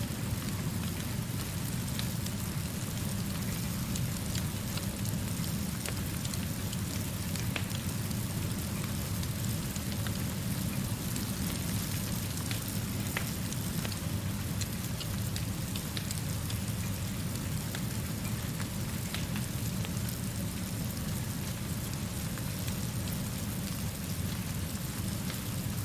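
Steady rain falling, with a low, even rumble beneath and scattered faint clicks of drops or crackles.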